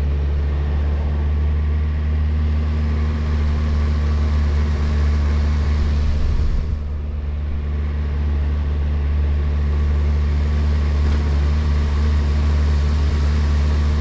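Kawasaki Versys motorcycle engine running steadily on the move, with wind and road noise over it; the sound eases briefly about halfway through.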